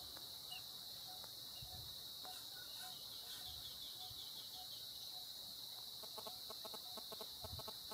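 Bird calls: short notes repeated every half second or so, with a fast run of clucking notes starting about six seconds in, over a steady high-pitched drone.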